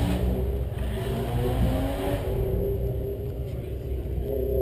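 A car engine running, its pitch gliding up and down and then holding steadier.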